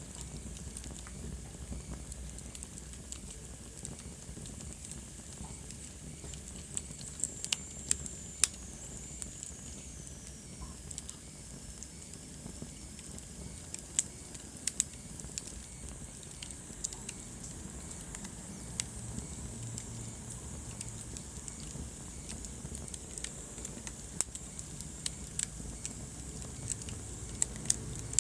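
Wood fire burning in a fireplace: irregular sharp crackles and pops over a low steady rustle, with a couple of louder pops about a quarter of the way in. A faint high whistle falls in pitch for a few seconds around then.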